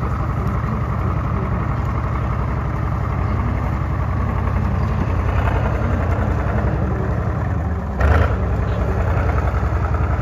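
KV-1 tank's V12 diesel engine running steadily, with a brief louder burst about eight seconds in.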